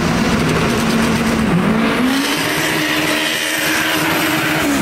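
Turbocharged EK Honda Civic's engine revving hard as the car pulls off. Its pitch dips briefly about a second and a half in, then climbs and holds high.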